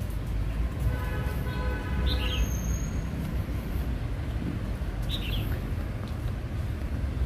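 A small bird chirps twice, a short high call about two seconds in and again about five seconds in, over a steady low background rumble. A brief held tone sounds about a second in.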